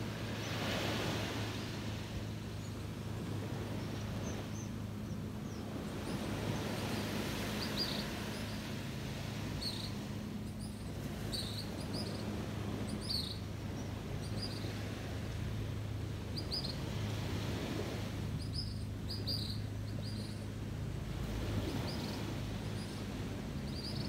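Small birds chirping in short, repeated high calls over the swelling wash of surf on a beach. A steady low hum runs underneath.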